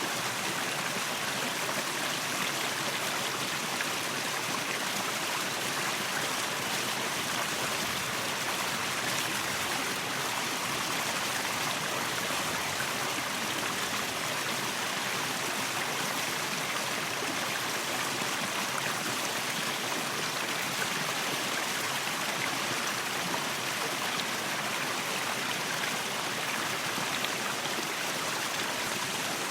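Waterfall: steady rushing and splashing of falling water, even and unbroken.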